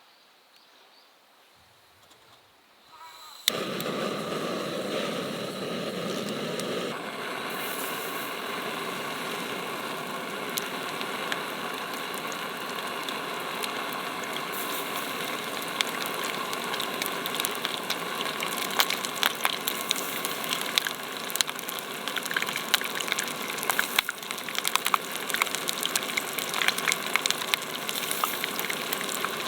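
Hot cooking oil starts sizzling all at once a few seconds in, as food goes into the pan. It keeps up a steady sizzle full of sharp crackles, and the crackles grow denser near the end.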